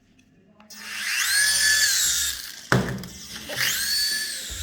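Toy remote-control helicopter's small electric motor and rotor spinning up to a high whine, holding, then winding down, twice, with a sharp knock between the two runs.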